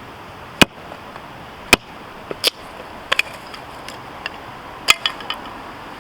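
Husqvarna hatchet chopping firewood: a series of sharp, separate strikes, the loudest just over half a second in, near two seconds and about five seconds in, with smaller knocks and cracks of the wood between them.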